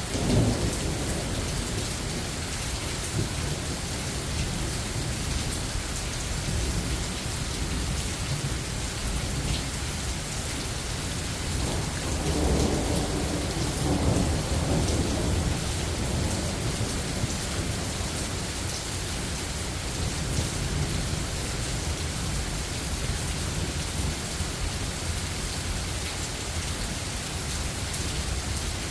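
Steady rain falling, with low rolls of thunder, one just at the start and a longer one about twelve to fifteen seconds in.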